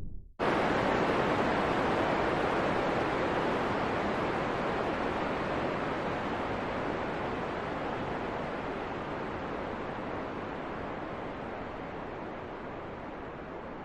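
Steady rushing wind, an even hiss with no distinct gusts or tones. It starts abruptly about half a second in and slowly fades.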